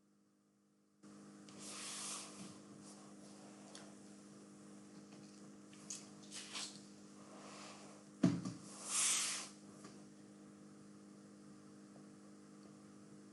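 Steady electrical mains hum on a microphone line, starting abruptly about a second in. A few short hissy noises and one low thump about eight seconds in come over it.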